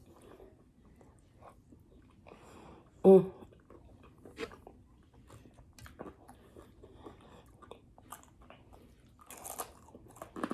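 Close-up chewing and crunching of food, with many small mouth clicks and a louder crunch near the end. A brief voice sound about three seconds in.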